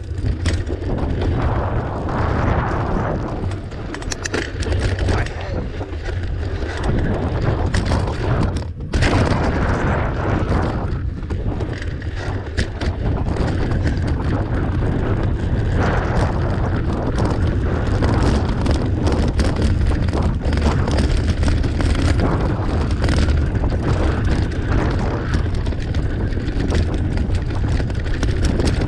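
Wind buffeting the microphone as a mountain bike is ridden, a steady deep rumble, with frequent small knocks and rattles from the bike running over rough trail.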